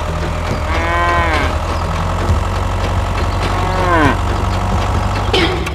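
A steady low engine-like hum, with three or four drawn-out calls over it, each rising and then falling in pitch.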